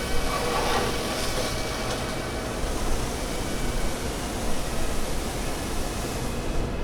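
Steady low rumble with a hiss over it, with faint musical tones fading out in the first two seconds; the hiss cuts off sharply at the end.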